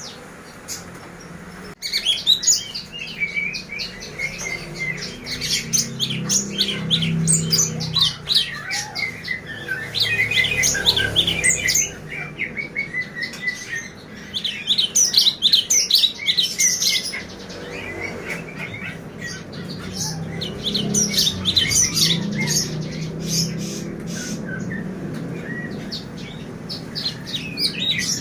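Several caged songbirds chirping and whistling over one another, a dense run of quick, high chirps that starts abruptly about two seconds in.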